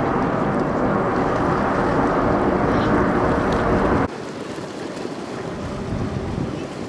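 Loud steady roar of the MB-339 jets' turbojet engines passing overhead. About four seconds in it cuts off suddenly to a much quieter hiss of wind and sea.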